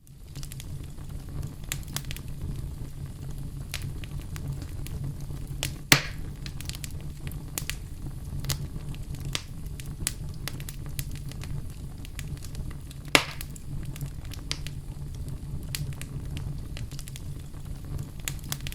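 Wood fire crackling in a fireplace: a steady low rumble with a constant scatter of sharp little crackles. Two louder pops stand out, one about six seconds in and another about seven seconds later.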